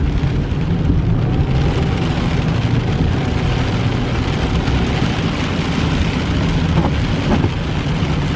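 A car driving on a rain-wet road: steady engine and road drone with tyre hiss.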